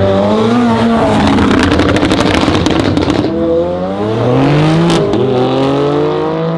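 A car engine revving hard, its pitch climbing and dropping repeatedly, with a stretch of rapid crackling about a second and a half in and a single sharp bang about five seconds in.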